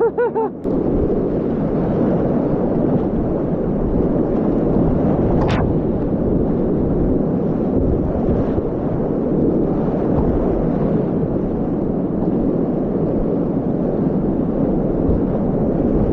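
Whitewater of a steep, continuous Class 4 rapid rushing steadily and loudly.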